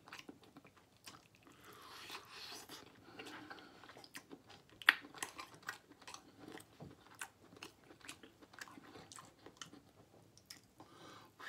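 Close-miked chewing and biting of smoked barbecue turkey leg meat: wet mouth smacks and many small clicks, with one sharper click about five seconds in.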